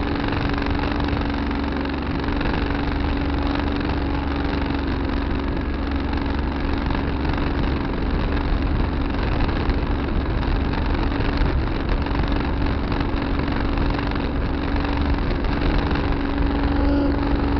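Tractor engine running steadily, with a constant hum and a steady droning tone, picked up by the dash camera. It gets slightly louder near the end.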